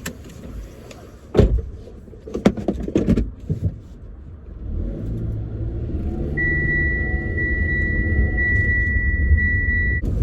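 A few door thumps and knocks, then the car's engine pulls away and rises in pitch. A high, steady seatbelt warning chime sounds for the last few seconds, its tone breaking about once a second.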